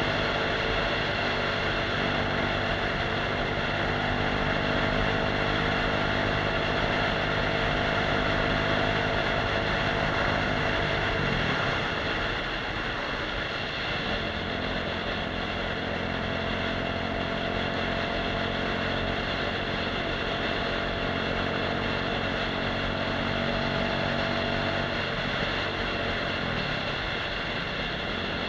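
Off-road motorcycle engine running under way. Its pitch falls and rises again around twelve seconds in and once more near the end.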